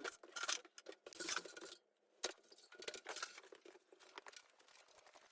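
Faint, irregular clatter and rustling from something being handled, with one sharp click a little past two seconds in.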